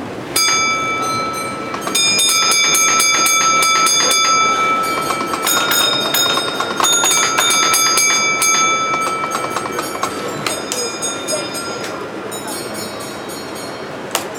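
A bell ringing with a fast rattling clatter, starting about half a second in, loud for several seconds and then fading, with a shorter second burst near the end, over a background of voices.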